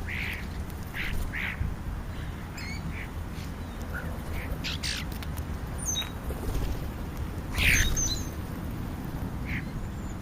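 American crows and European starlings calling at a bird feeding pile: a dozen or so short harsh calls scattered through, with thin wavering whistles, over a steady low rumble.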